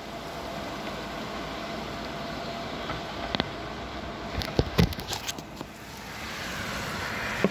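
Heavy rain falling as a steady hiss, with a cluster of sharp taps and knocks around the middle.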